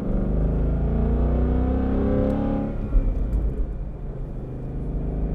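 Ford Mustang GT's 5.0 L V8 through a Borla ATAK cat-back exhaust, revved up for about two and a half seconds and then dropping back toward idle. There is a short sharp pop as the revs fall, about three seconds in.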